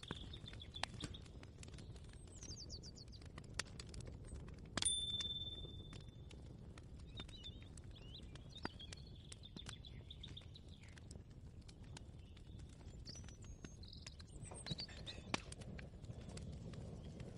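Kitchen ambience: scattered clinks and knocks of utensils and dishes over a low steady rumble, with one clink about five seconds in that rings on for about a second. Birds chirp faintly now and then.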